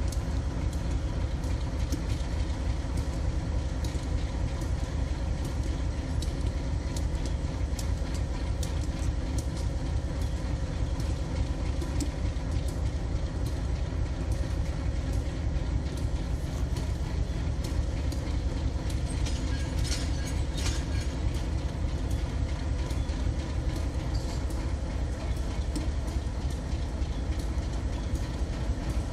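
Freight train rolling past with a steady, heavy rumble and a continual run of sharp wheel clicks over the rail joints, a denser patch of clicking about two-thirds of the way through.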